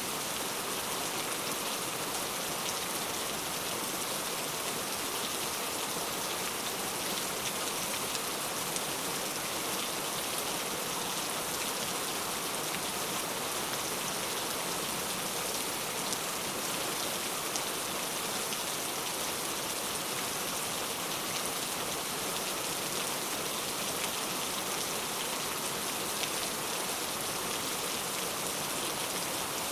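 Heavy rain falling steadily, an even dense hiss with scattered individual drop splashes.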